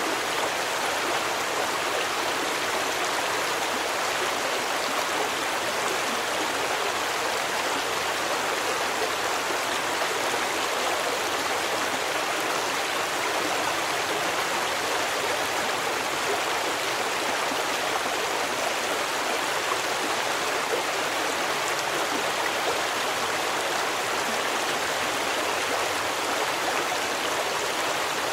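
Steady rushing of a stream's running water, even throughout with no distinct splashes or other events.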